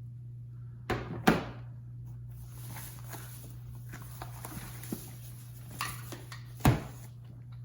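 Knocks and thumps from handling parts and packaging during an unboxing: two close together about a second in, one near the end, with a few light clicks between, over a steady low hum.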